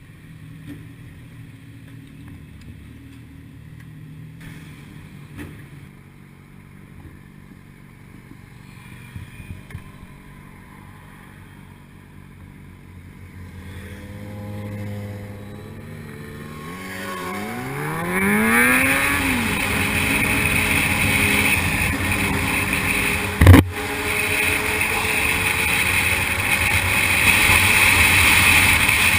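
Sportbike engine, faint and low at first, then revving up with a rising whine from about sixteen seconds in, followed by loud steady engine and wind noise at speed. A single sharp knock, the loudest sound, comes about two-thirds of the way through.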